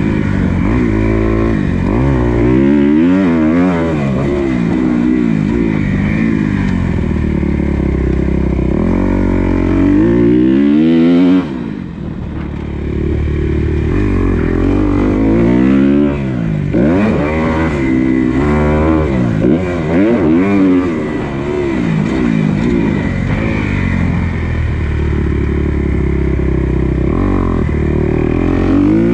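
Motocross dirt bike engine revving hard and falling back over and over as it is ridden around a track, the pitch climbing and dropping with each burst of throttle. It briefly goes quieter, off the throttle, about twelve seconds in.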